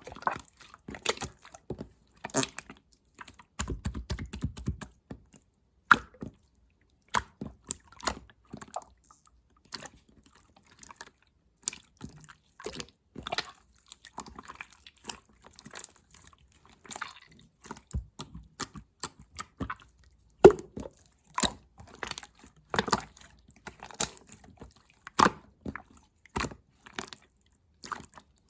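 Clear slime being pressed, poked and squished by hand, giving irregular sticky clicks and pops, a few of them louder.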